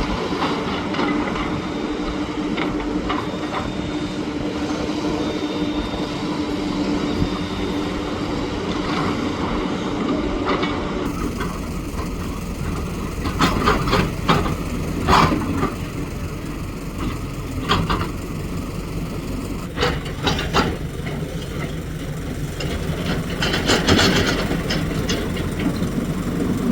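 Steady engine and vehicle noise with a constant hum. About eleven seconds in the sound changes to a rougher din with several sharp knocks and clatters.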